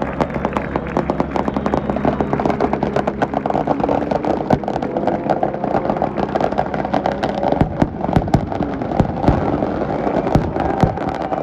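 Engines running under a dense, continuous crackle of sharp bangs, like firecrackers or exhaust pops. The bangs grow heavier and louder from about seven seconds in.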